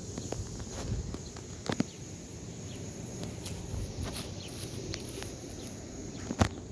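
Quiet outdoor ambience: a low steady rumble and a faint high hum, broken by scattered sharp clicks and knocks, the loudest one near the end.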